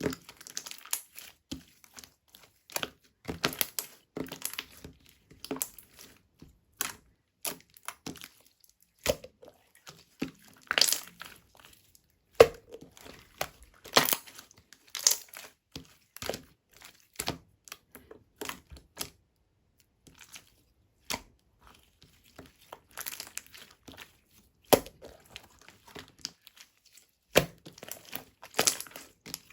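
Pink yogurt-textured slime being played with by hand, giving irregular sticky crackles and small pops as it is pressed and stretched, in uneven clusters with short pauses between.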